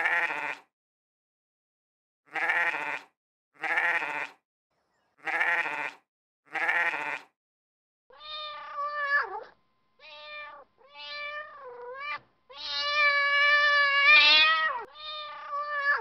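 A goat bleats five times, mostly in pairs, then a cat meows over and over, with one long drawn-out meow about two-thirds of the way through that falls in pitch at its end.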